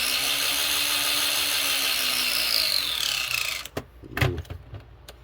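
Traxxas TRX-4 RC crawler's motor, pinion and transmission run up in first gear, giving a loud gear whine with rattling. It holds steady for about three seconds, then winds down, and a couple of knocks follow. This is a test of the pinion-to-spur gear mesh after the motor was shimmed with a washer to quiet it.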